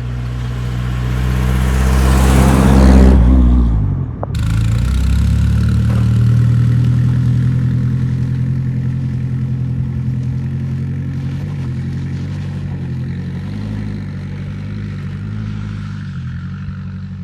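1973 Ford Pinto engine running through its home-built exhaust and muffler under way. The revs climb for about three seconds, drop away sharply, then the engine pulls on at a steady note that slowly eases off.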